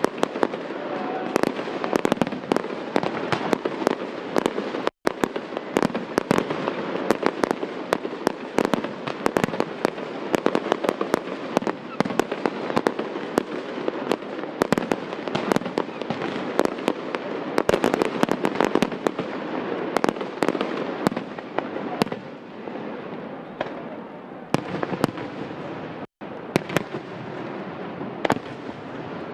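Fireworks display: aerial shells bursting in a dense, continuous run of sharp bangs and crackles, thinning a little after about twenty seconds.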